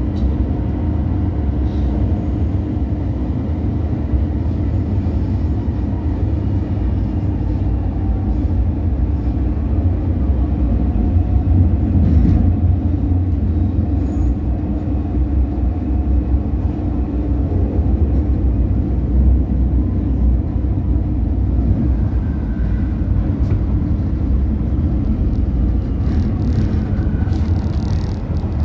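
MTR South Island Line S-Train heard from inside the car while running at speed: a steady low rumble of wheels on track with a constant hum under it.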